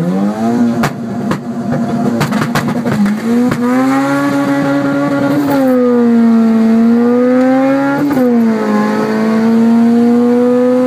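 Turbocharged Honda Civic B18C1 four-cylinder revs sharply up at launch, then holds high, nearly flat revs down the drag strip. Brief dips in pitch come about five and a half and eight seconds in, like gear changes. The Exedy stage 1 clutch gave out in the burnout, so it slips under the turbo's power.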